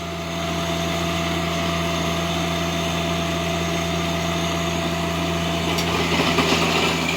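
Tractor engine running steadily under load while its tiller churns through hard, compacted ground. The grinding noise grows a little harsher near the end.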